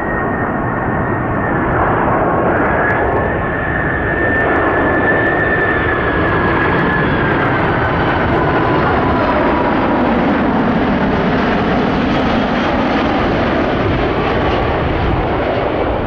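Lockheed C-5M Super Galaxy's four GE F138 turbofans running loud and steady as the aircraft passes, a high engine whine sliding slowly lower over a broad jet roar.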